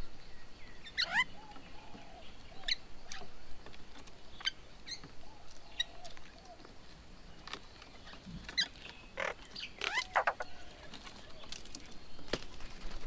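Several birds calling around a garden bird table: scattered short, sharp calls and chirps, some sweeping quickly down in pitch, with softer low chatter between them, busiest in the last few seconds.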